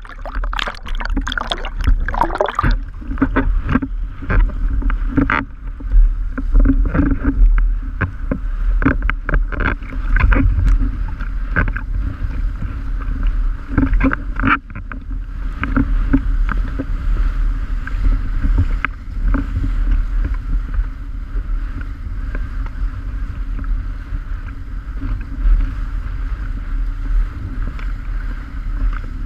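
Strong wind buffeting the microphone as a heavy, continuous low rumble, with many sharp knocks and rattles through the first half.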